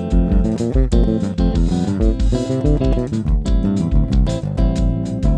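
Live band music: plucked guitar and bass guitar over a steady drum beat.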